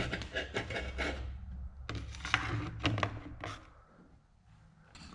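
Handling noises as chainsaw parts are worked on by hand: a quick series of knocks, clicks and scraping that stops a little before four seconds in.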